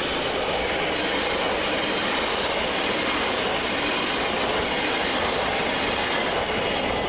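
London Overground Class 378 electric train running, a steady rumble of motors and wheels on rail that holds at an even level.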